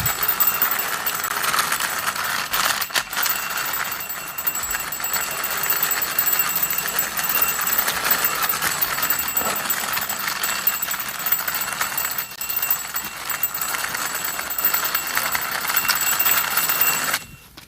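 White plastic toy cow pushed along by hand, its built-in music playing continuously along with a dense rattling from the toy's mechanism. The sound stops shortly before the end.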